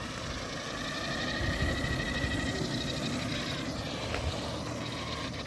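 Traxxas Maxx RC monster truck driving: a steady rush of tyre and road noise with a faint high whine from its electric motor and gears, swelling a little about one and a half seconds in.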